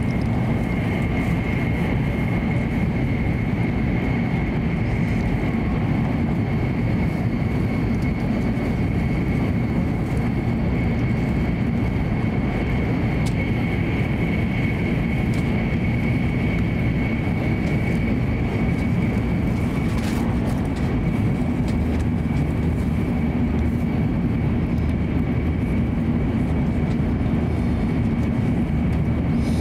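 Hokuriku Shinkansen train's interior running noise at high speed: a steady low rumble and rush with a thin high-pitched whine held on one note.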